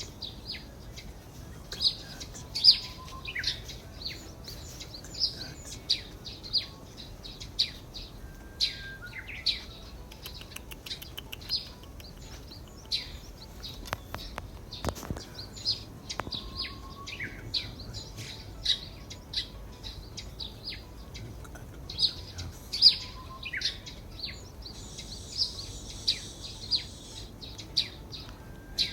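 Wild birds chirping: short, sharp chirps about once a second, with a few short whistles in between.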